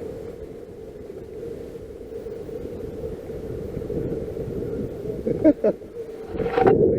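Wind rushing over the microphone in flight, with a steady low hum underneath; a short voice-like sound about five and a half seconds in, and louder noise near the end.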